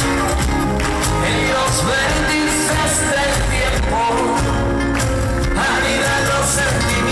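Live pop-rock band playing a song, with a lead singer's voice over a steady bass and drum beat.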